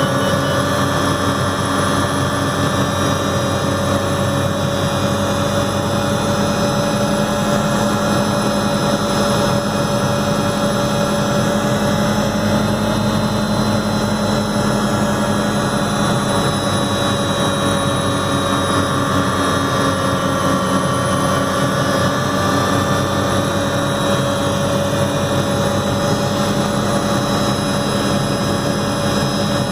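Helicopter engine and rotors running steadily in flight, a constant drone with a steady whine and no change in pitch.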